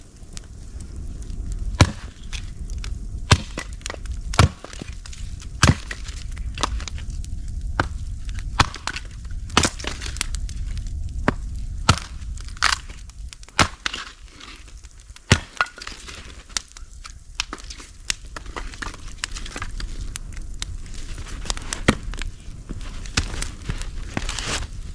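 Bonfire of burning mattresses and old wood crackling, with many sharp irregular pops and snaps over a steady low roar.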